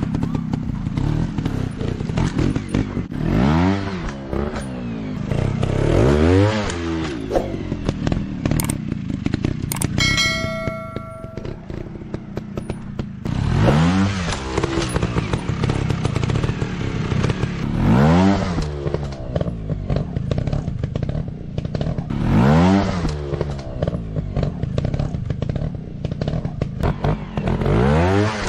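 Off-road motorcycle engines running, revving up and dropping back again and again, some six or seven times. A short steady tone sounds about ten seconds in.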